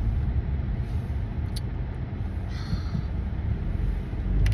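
Steady low rumble of a car driving, heard from inside the cabin, with a faint click about one and a half seconds in.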